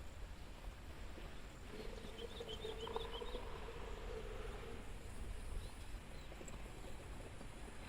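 Morning birdsong and insects in open farm fields: a bird gives a quick run of short high chirps a couple of seconds in, over a faint steady insect drone. A steady low hum lasts about three seconds in the first half, from an unclear source.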